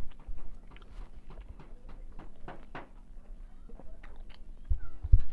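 Close-miked chewing of a mouthful of rice and curry, with many small wet mouth clicks. About five seconds in, louder low thumps begin.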